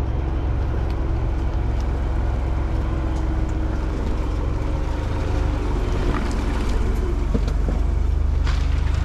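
Off-road 4x4 vehicle engine running with a steady low rumble, moving slowly over a rough dirt trail, with a few small knocks and ticks near the end.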